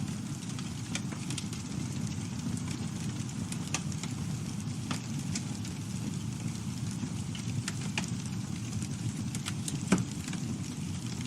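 Campfire burning: a steady low rumble of flames with scattered wood crackles and pops, and one sharper pop near the end.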